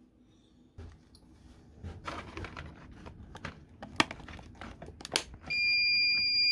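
Plastic clicks and knocks of the battery being handled and fitted to a 3M Adflow powered air respirator unit. Near the end comes a loud, steady electronic beep lasting about a second as the unit powers up.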